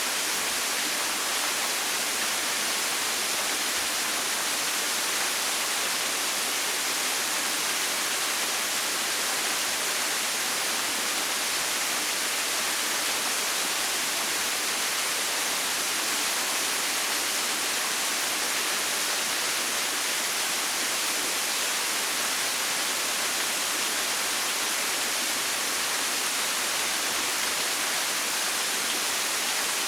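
Waterfall of about 10 m drop, water falling and splashing in a steady, even hiss that does not change.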